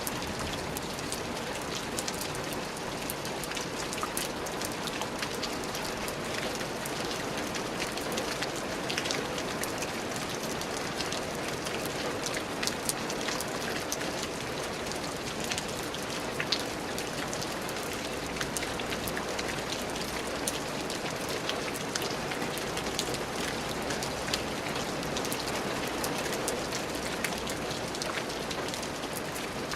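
Steady rain falling, with a constant hiss and many scattered drops ticking on a surface.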